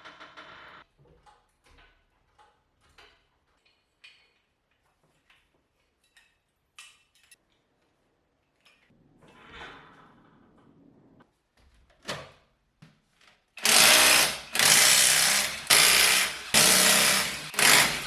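Scattered light clicks and knocks of hand tools, then a power tool run in four loud bursts of about a second each near the end.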